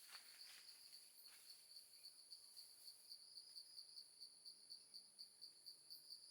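Insects chirping faintly: a high, evenly pulsed chirp at about four to five pulses a second over a steady higher drone, with a few soft faint clicks in the first second or so.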